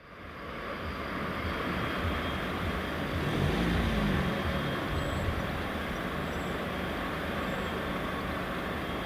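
A train passing at speed: a steady rush of rolling wheel and wagon noise, with a brief low hum about three and a half seconds in.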